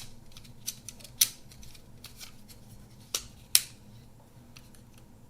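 Small, sharp clicks and taps from handling the internal mechanism of an opened Kodak Ektar half-frame film camera, scattered singly, with the loudest about a second in and again about three and a half seconds in.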